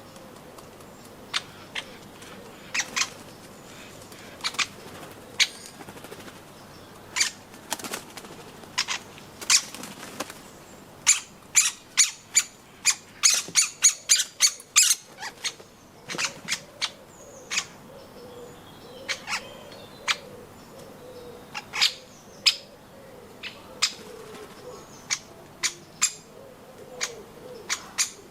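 Woodpecker pecking at nuts on a garden feeder: irregular sharp taps, coming in quick runs around the middle and again near the end.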